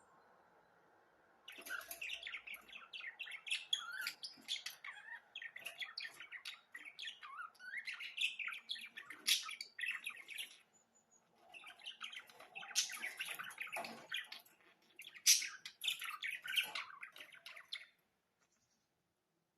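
Pet budgerigars chattering and warbling: a fast run of chirps, squawks and rising and falling whistles. It starts a second and a half in, breaks off briefly about halfway, and stops shortly before the end.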